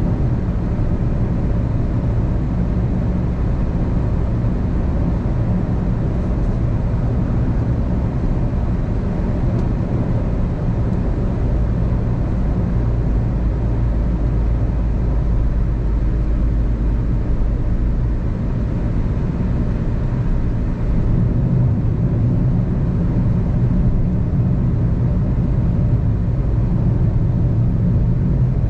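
Car being driven at steady speed: a continuous low rumble of engine and tyre road noise, growing slightly louder about two-thirds of the way through.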